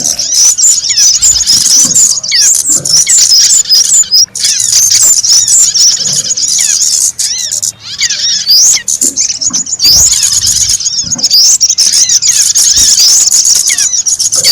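Small songbirds in a dense, continuous flurry of high chirps and quick twittering sweeps, many calls overlapping: a bird-lure recording of small wild birds.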